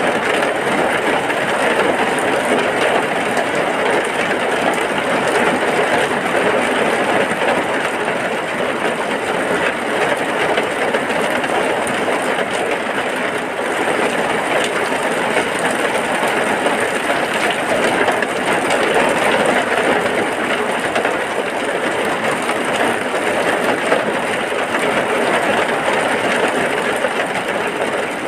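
Heavy rain falling in a steady, even wash of noise.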